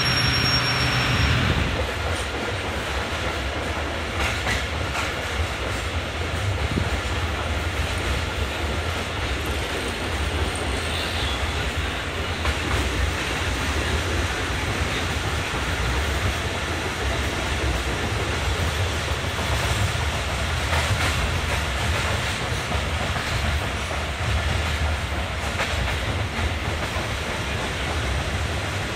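Local passenger train running along the track: a steady rumble with the clickety-clack of wheels over rail joints. In the first second or so a louder sound carrying a steady tone cuts off.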